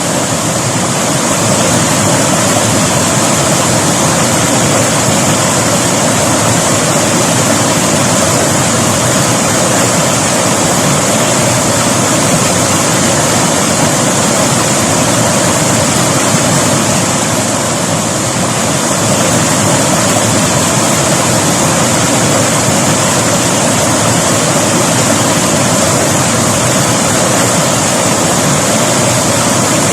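River water rushing, a steady loud flow with no breaks.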